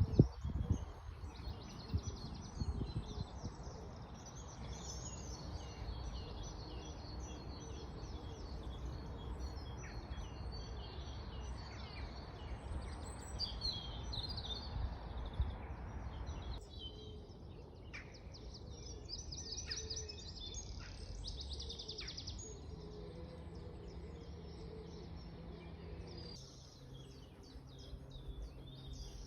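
Several songbirds singing and chirping in a busy chorus of short, high phrases. A low rumbling noise, with a few knocks near the start, runs underneath for the first half and cuts off suddenly partway through.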